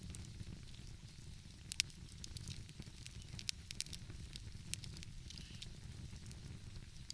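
Wood fire crackling, with irregular sharp pops, the loudest about two seconds in, over a steady low rumble.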